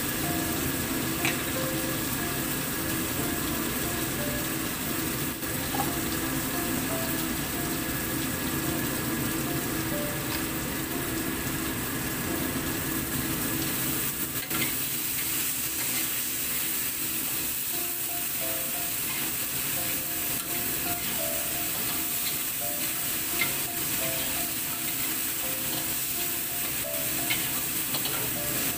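Eggplant pieces frying in hot oil in a wok, sizzling steadily, with a few short clicks and scrapes of a metal spatula stirring them.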